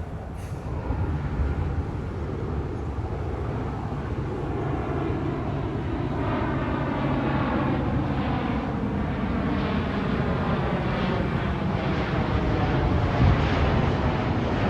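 Jet airliner on approach flying low overhead, its engine noise growing steadily louder as it nears, with a tone that slides down in pitch.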